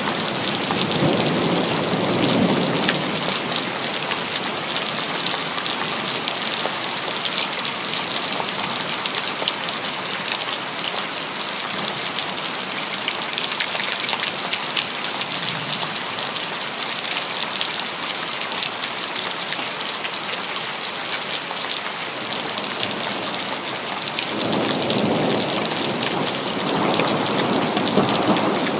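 Steady rain falling, with low rolls of thunder rumbling in the first few seconds and again near the end.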